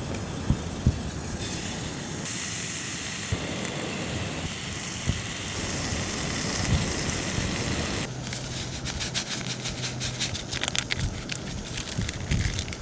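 Maple bacon frying in a pan on a camp stove: a steady sizzling hiss, which gives way about two-thirds of the way through to rapid crackling and popping.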